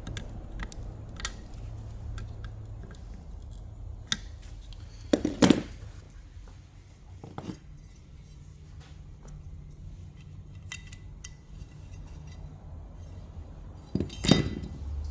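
Small metal parts and hand tools clinking and tapping against each other during an alternator rebuild, with two louder metallic knocks, one about five seconds in and one near the end, over a steady low hum.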